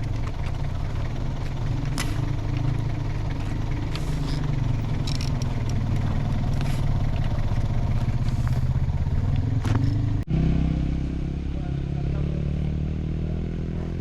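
An engine running steadily, with scattered clicks and knocks over it. A brief break about ten seconds in is followed by a steady engine note.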